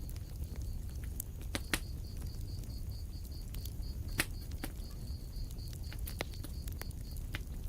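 Wood fire in a fireplace crackling, with irregular sharp pops over a steady low rumble of the flames. A high, even chirp repeats about five times a second and stops near the end.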